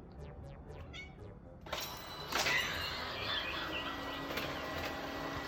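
A cat vocalising, quiet at first, then louder and harsher from about two seconds in.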